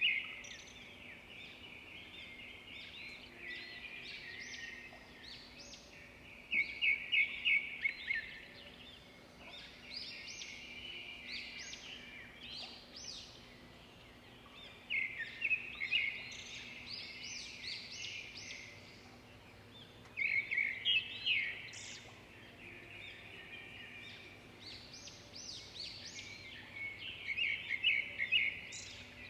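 Songbirds singing in bursts of rapid repeated high notes every few seconds, with quieter chirping between bursts and a faint steady hum underneath.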